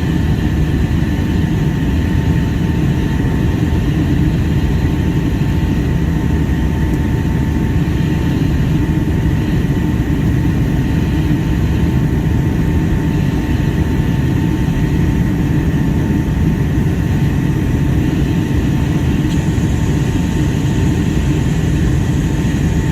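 Steady cabin noise of a Boeing 757-200 airliner in flight on its descent: a constant low rumble of engines and airflow with a steady whine from the engines above it.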